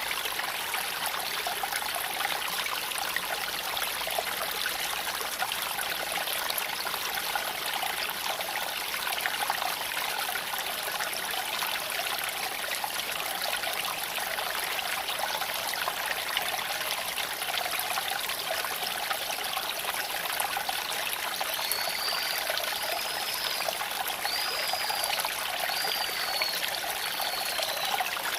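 A creek flowing steadily over stones, a constant trickling rush. From about three-quarters of the way in, a bird calls repeatedly over it with six or so short, high, arched notes.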